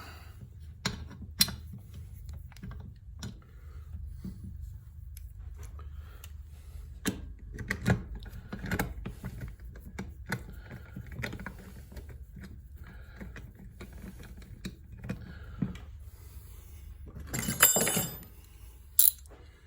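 Small metal tools and hardware being handled: scattered clicks and clinks of a socket bit, bolts and parts, with a quick burst of clattering near the end.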